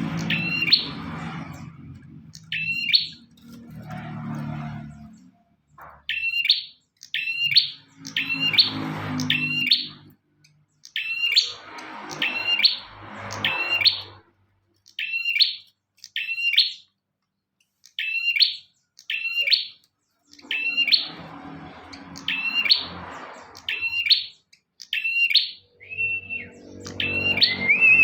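A prinia (prenjak) calling repeatedly: sharp, quick chirps in pairs and short runs, with a longer steady trilled note near the end.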